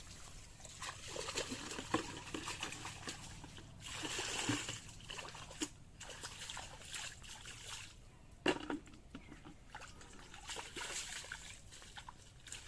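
Shallow water splashing and trickling in an irregular run of sloshes, with a few sharper splashes about two seconds in, near the middle and about eight and a half seconds in.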